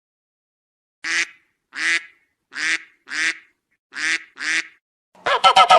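Goose calling: six short separate honks spaced under a second apart, then a fast run of overlapping honks near the end.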